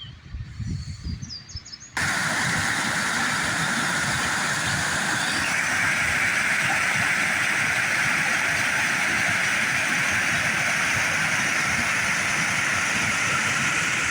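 Fast-flowing water in a creek swollen by heavy rain: a steady rushing noise that starts abruptly about two seconds in and holds at an even level.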